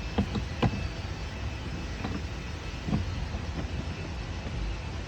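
BMW plastic door trim being handled: several sharp clicks and knocks over a steady low background rumble.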